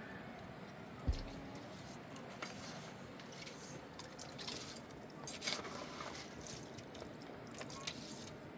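Steady rain falling, with a single thump about a second in and a few short clicks and rustles later on.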